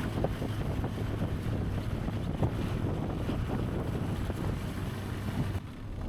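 Wind noise on the microphone over a low, steady motorcycle engine drone while riding, which fades slightly near the end.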